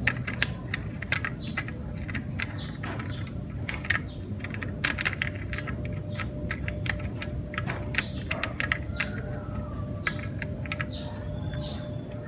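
Irregular metallic clicks and taps of hand tools working on an engine drain plug as it is threaded in and tightened.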